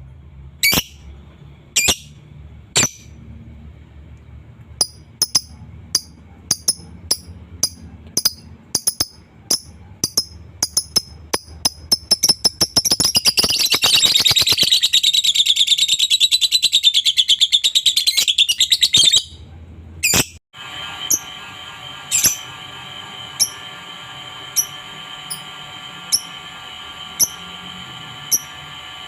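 Lovebird calling in sharp single chirps that come faster and faster and run into a long rapid chattering trill (the 'ngekek') lasting several seconds. After a short break, sharp chirps repeat about once a second over a steady hum.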